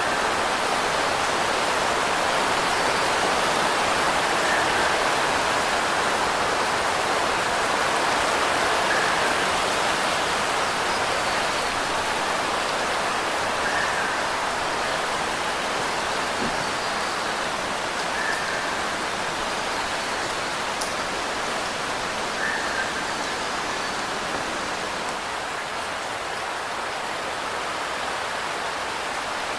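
Steady heavy rain falling, an even hiss with no single drops standing out. A faint short tone recurs about every four to five seconds.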